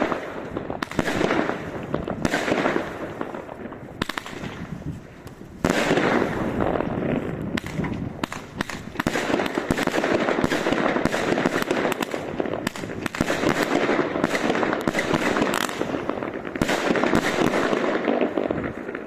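Fireworks going off in a rapid, continuous barrage of cracks and bangs, thickest from about six seconds in.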